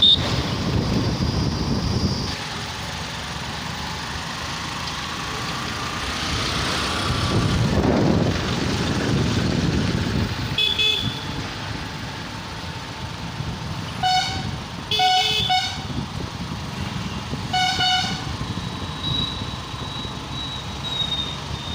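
Busy city street traffic heard from a moving motorcycle: steady engine and road noise, with a louder vehicle passing about eight seconds in. Vehicle horns honk several times in short blasts from about eleven to eighteen seconds in.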